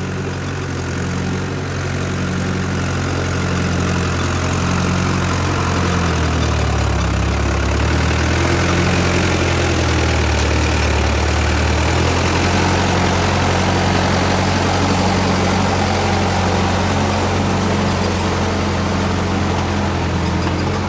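Tractor diesel engine running steadily. For about six seconds in the middle its note shifts lower and heavier, then it settles back, as the bogged-down tractor is worked out of the mud.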